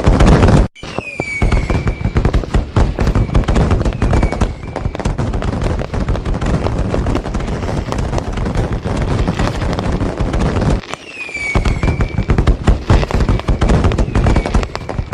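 Fireworks going off in a dense run of bangs and crackles, with a few short falling whistles. The sound drops out sharply just under a second in and dips again about eleven seconds in.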